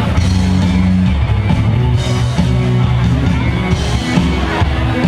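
Live rock band playing loudly, with bass, electric guitar and drums.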